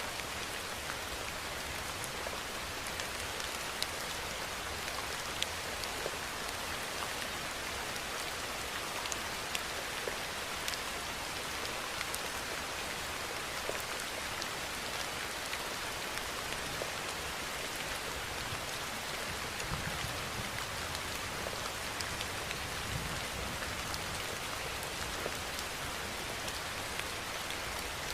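Steady rainfall, a continuous hiss with individual drops pattering on a surface.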